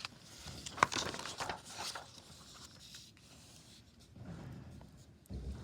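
Pen scratching on paper in short strokes, with a sharp tap just under a second in, then fainter scraping.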